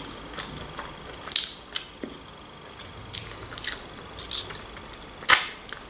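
Eating a crispy breaded chicken wing: scattered short crunches, bites and mouth sounds while chewing, with a sharper click just past five seconds in.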